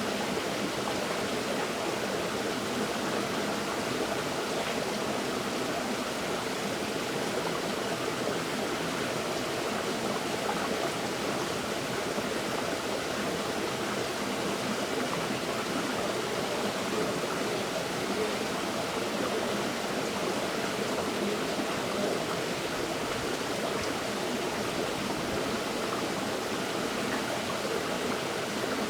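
River water flowing, a steady, even rush of stream noise.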